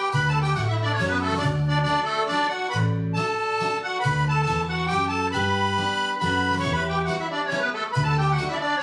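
Accordion playing a mazurka: a quick, busy melody over a steady bass-and-chord accompaniment.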